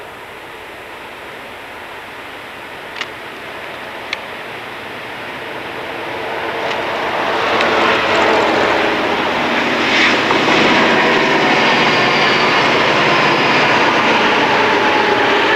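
Multi-unit diesel-electric locomotive consist of a mixed freight train approaching and passing close by at speed. Its engine drone swells over the first half and stays loud, with a high whine over it. Two sharp clicks sound about three and four seconds in.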